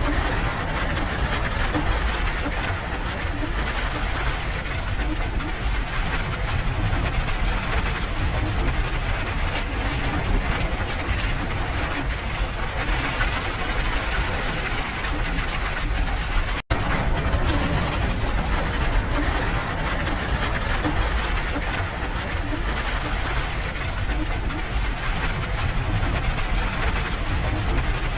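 Steady rain falling, an even hiss with a heavy low rumble beneath it. The sound cuts out for an instant a little past halfway.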